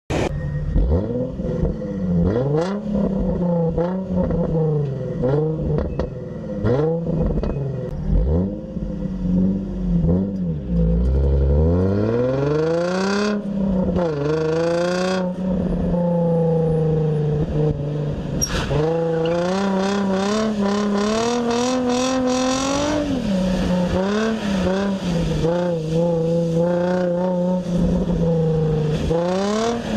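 Exhaust of a 2004 Nissan 350Z's 3.5-litre V6 with the resonator deleted and the stock muffler kept: a string of quick throttle blips, then a longer rev climbing in pitch, then the engine held at a steady speed with a few more rises and falls.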